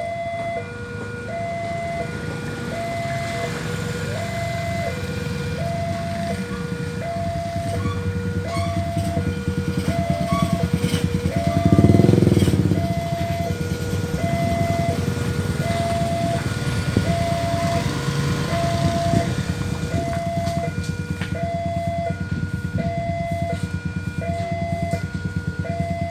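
Two-tone electronic railway level-crossing alarm, alternating between a low and a high note about once a second. Under it is the rumble of a passing train, which swells to its loudest about twelve seconds in.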